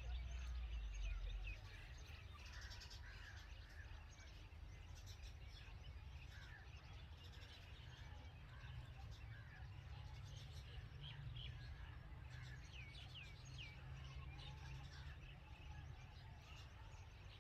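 Red-vented bulbuls chirping: many short, faint chirps and quick rising whistles scattered throughout, over a low rumble that is strongest in the first second or two.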